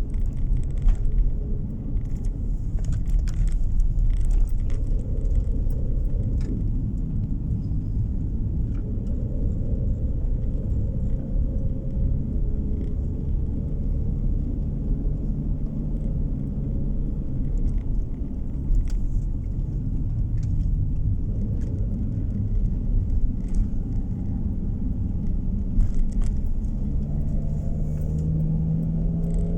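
Steady low road and engine rumble of a car being driven, heard from inside the cabin, with a few faint light clicks and rattles. The engine note rises slightly near the end.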